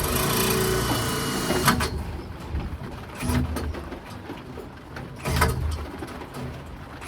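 A power drill driving screws runs steadily, stops with a click about a second and a half in, then gives a few short bursts with clicks.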